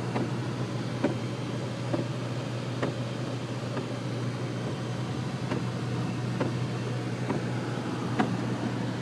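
Car cabin noise while driving on a rain-wet road: a steady low hum of engine and tyres under a wash of road noise, with a light tick about once a second.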